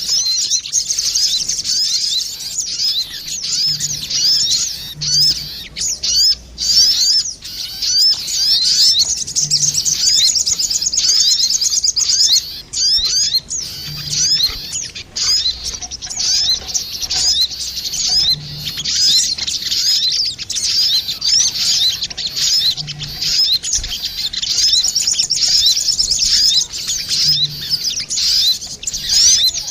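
Sogon birds calling, male and female answering each other as a bird-lure (pikat) recording: a dense, nearly continuous stream of rapid, high chirping notes, broken by short pauses twice.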